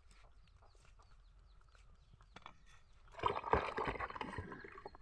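Dog eating papaya: about three seconds in, a burst of wet chewing and smacking clicks lasting over a second, under faint bird chirping.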